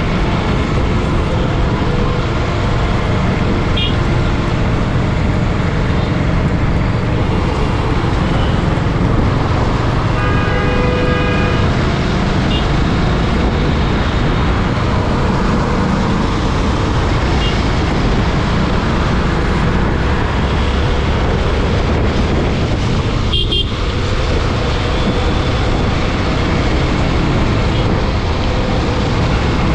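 Steady road and traffic noise from a motorbike ride in city traffic, with a heavy low rumble. Vehicle horns toot now and then, the longest about ten seconds in.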